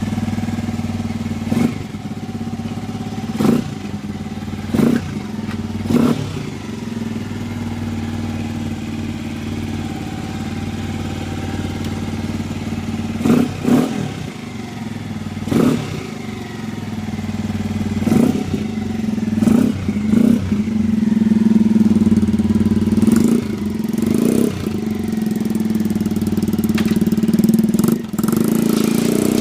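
Motorcycle engine idling steadily as it warms up. About a dozen brief, sharp louder bursts break the idle every second or few seconds, and the idle grows a little louder in the second half.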